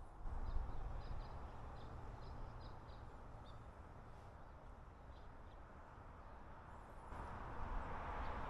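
Wind buffeting the microphone with a low rumble, a few faint high chirps of small birds in the first few seconds, and a louder rushing swell that rises about seven seconds in.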